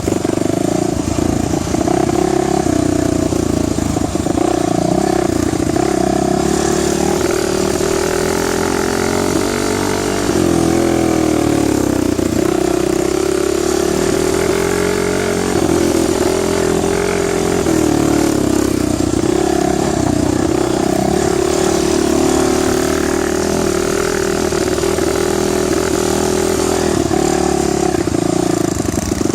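Dirt bike engine running continuously, its pitch rising and falling with the throttle.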